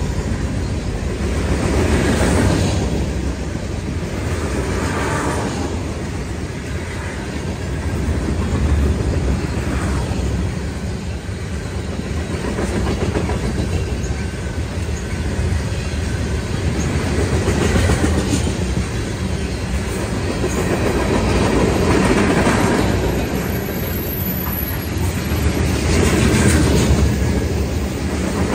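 Freight train cars, mostly tank cars, rolling past close by: a steady rumble and clickety-clack of steel wheels on rail, swelling and easing every few seconds.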